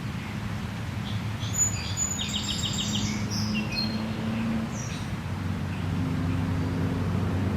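Songbird chirping: a burst of calls about two seconds in, including a quick run of about six notes, then a few fainter chirps later on. Underneath, a steady low hum and an even background hiss.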